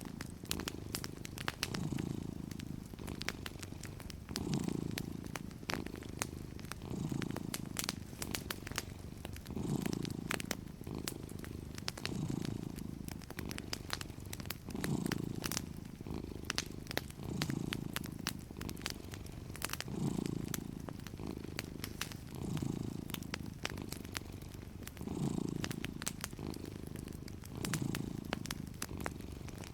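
A resting cat purring steadily, the purr swelling and easing with each breath about every two and a half seconds. Over it run the frequent small sharp pops and snaps of a crackling fireplace.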